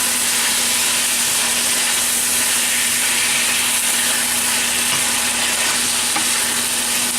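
Chicken, bell peppers and green beans frying in oil and General Tso sauce in a wok on high heat: a steady sizzle.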